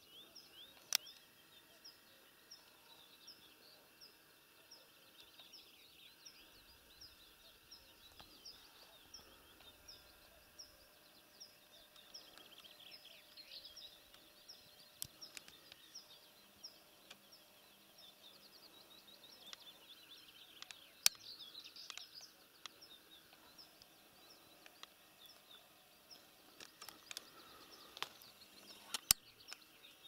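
Faint birdsong in open country: a bird repeating a short high chirp about twice a second while other birds trill, with a few sharp clicks.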